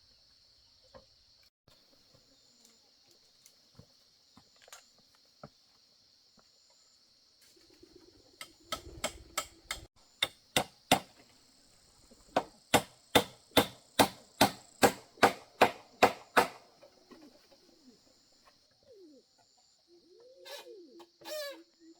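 Hammer driving nails into wood: a run of about seven sharp strikes, a short pause, then about a dozen more at roughly three strikes a second.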